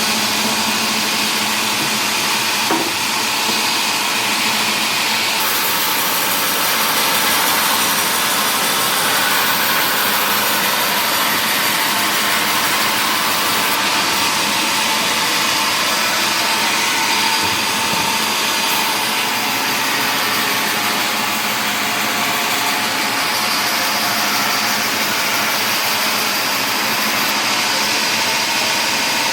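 Sawmill machinery running steadily, a continuous saw-and-motor noise from the cutting of mahogany timber.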